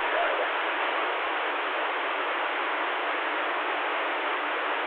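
CB radio receiver hissing with steady static on an open channel while no one is transmitting, the hiss cut off thinly at top and bottom like a radio speaker's band.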